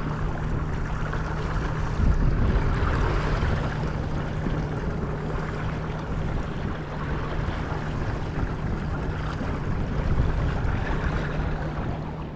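A small fishing boat's motor running steadily with a low, even hum, under wind and water noise.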